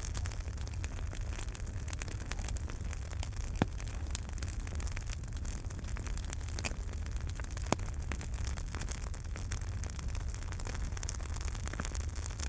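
Wood fire in a fireplace crackling over a steady low rumble, with a few sharper pops: the loudest about three and a half and about seven and a half seconds in.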